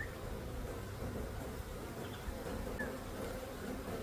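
Honey bees buzzing around an open hive during an inspection: a steady hum of the colony, with now and then a single bee passing close.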